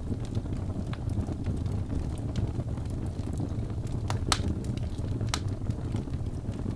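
Wood fire burning in a fireplace: a steady low rumble of flame with scattered crackles and sharp pops of the burning logs, the loudest pop about four seconds in.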